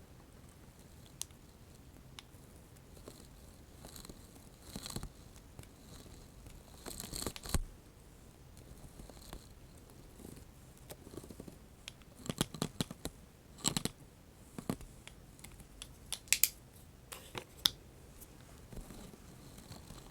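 Close-miked crackling and tearing handling sounds from the ASMR 'spiderweb' trigger, with no talking. They come as irregular clusters of sharp crackles and clicks, loudest about seven seconds in and again between twelve and seventeen seconds, over a faint room tone.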